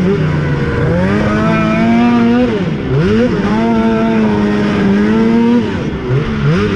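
Snowmobile engine running at high, steady revs, dropping sharply twice as the throttle is let off and climbing straight back up each time.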